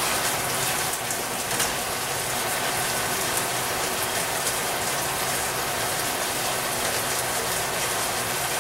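Chicken sizzling in a wok, a steady crackling hiss as the pan juices boil down to crust the chicken.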